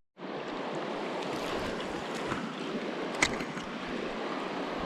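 Steady rush of moving water, with a single brief click about three seconds in.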